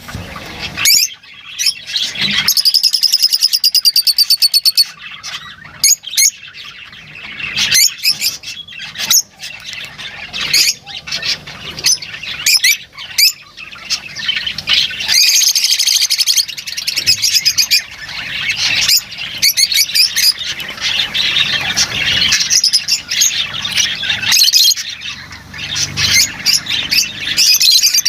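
Lovebirds chattering: a steady stream of sharp, high-pitched chirps and squawks, broken by fast rattling trills.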